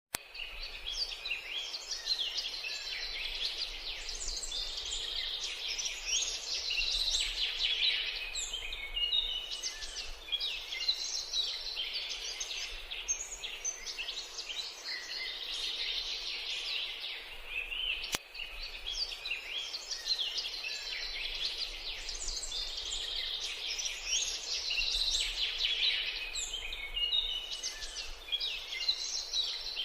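Bay-headed tanager giving a dense, unbroken stream of rapid, high, thin chirps and twitters. About eighteen seconds in there is a single sharp click, after which the same passage appears to start over, as in a looped recording.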